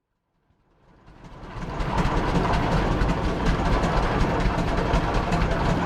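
Vintage tractor engines running, a steady low rumble with rapid ticking that fades in from silence over the first two seconds.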